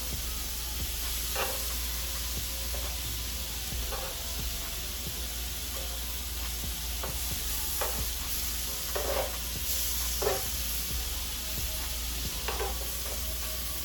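Food sizzling steadily on a hot griddle, with a spatula scraping and knocking across the cooking surface every second or few as the fried rice is stirred.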